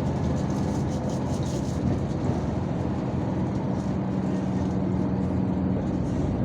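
Yutong ZK6128HG city bus under way, heard from inside: a steady engine hum over road and running noise.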